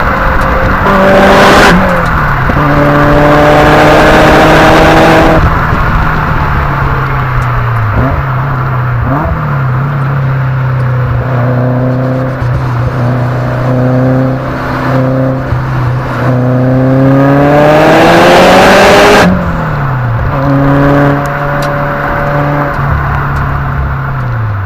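Subaru GC8 Impreza's flat-four boxer engine and exhaust driven under load. The revs climb and then drop suddenly several times as it shifts gears, with the loudest pulls just before each shift.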